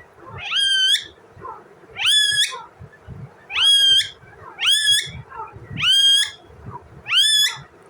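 A pet parrot giving six loud calls, each about half a second long, rising sharply in pitch and then held.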